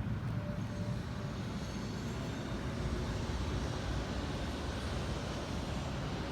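Steady low background rumble of ambient room noise, even throughout, with no distinct events.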